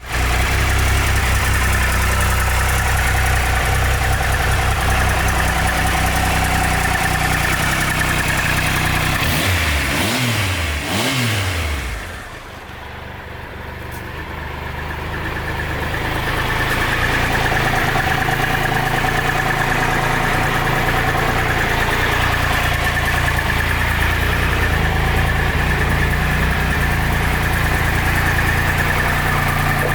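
Triumph Trophy 1200's inline three-cylinder engine idling, blipped twice on the throttle about ten seconds in, with the pitch rising and falling each time, then settling back to idle.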